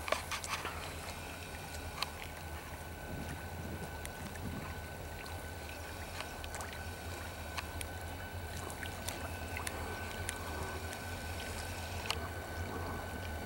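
Slow-moving train approaching in the distance: a steady low rumble, with a thin, steady high whine above it and a few faint ticks.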